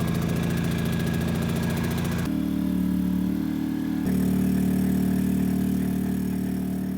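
Portable generator's small engine running steadily after an oil top-up. Its pitch shifts abruptly twice, about two seconds in and again about four seconds in.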